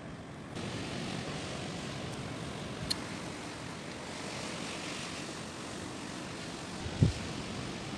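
Strong wind blowing steadily, growing louder about half a second in, with a low thump of wind buffeting the microphone near the end.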